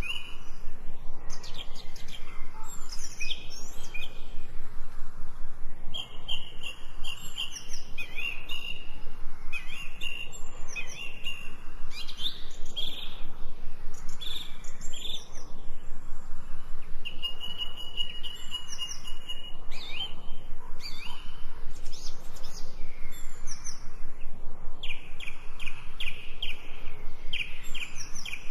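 Songbirds chirping and singing, many short overlapping calls and trills following one another without pause, over a faint steady background hiss.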